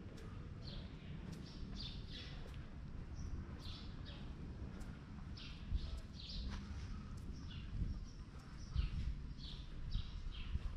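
Small birds chirping repeatedly: short, high chirps a few times a second, each dipping slightly in pitch, over a steady low outdoor rumble.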